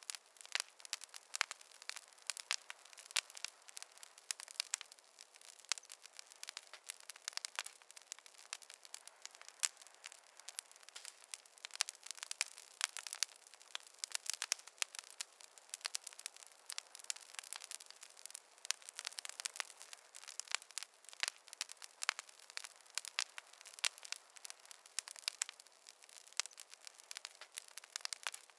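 Campfire crackling: a dense, irregular stream of small pops and snaps over a faint hiss.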